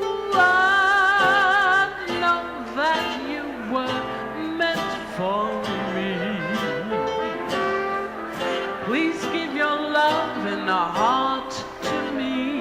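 Live jazz band music in 1920s–30s dance-band style. Near the start a lead note is held with a wide vibrato, followed by sliding, swooping melody notes.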